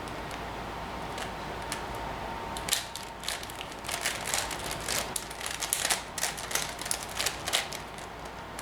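Plastic layers of a 5x5 Rubik's cube (Professor's Cube) being turned by hand while its centers are solved: a quick, irregular run of clicks and clacks that starts about three seconds in.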